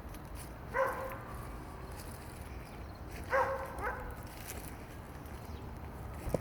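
A dog barking three short times: once about a second in, then twice in quick succession about three and a half seconds in.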